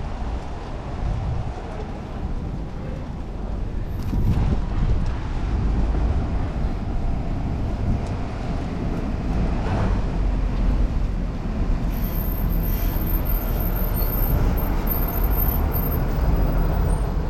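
City traffic and road noise heard from a moving bicycle, a steady low rumble without distinct events.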